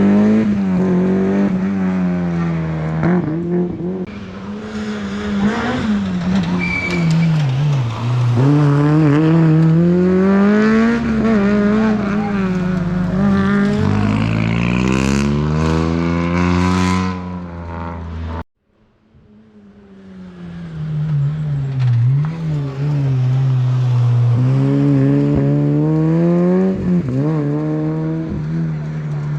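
Rally car engine revving hard, its pitch climbing and dropping as it shifts gears and lifts off for corners. About two-thirds through, the sound cuts off abruptly, then another stretch of a rally car accelerating and revving follows.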